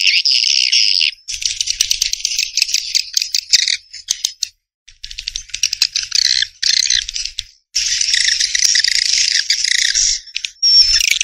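Edible-nest swiftlet calls used as a lure sound for swiftlets: dense, high-pitched chattering twitters in bursts, broken by brief pauses about every few seconds.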